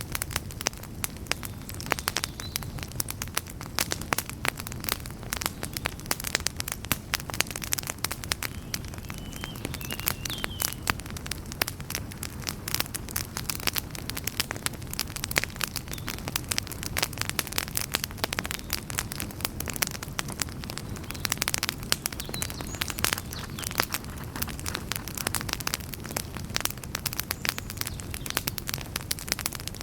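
Wood campfire crackling and popping constantly, many sharp snaps a second over a steady low rumble.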